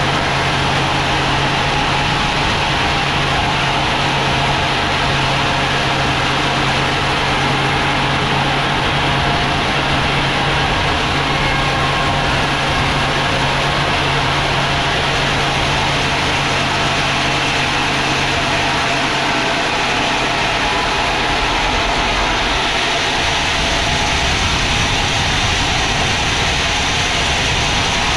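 Sawmill machinery running steadily, a constant engine-like drone with a low hum that fades out about two-thirds of the way in.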